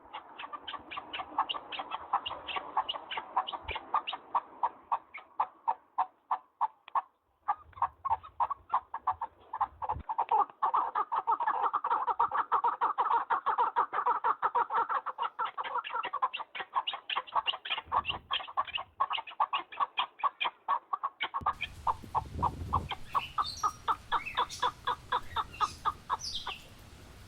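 Partridges calling in a long, fast run of repeated clucks, with a brief break about seven seconds in. In the last few seconds, higher chirps of other small birds join in.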